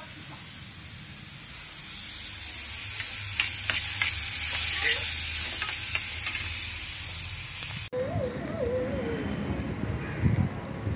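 Chopped vegetables sizzling as they fry in oil in a small pan, with a spatula stirring and scraping against the pan in scattered clicks. About eight seconds in the sound cuts to low gusts of wind buffeting the microphone.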